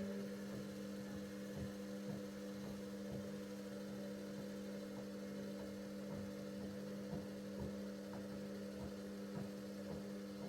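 Bauknecht WA PURE ST 14 FLD washing machine humming steadily during its steam self-cleaning program: an even, pitched hum with a few faint ticks.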